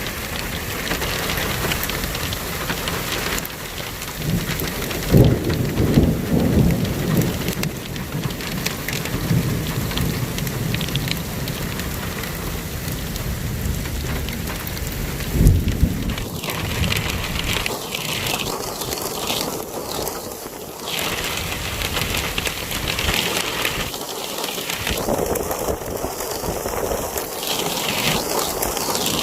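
Steady rain falling, with low rumbles of thunder about five seconds in and again about fifteen seconds in.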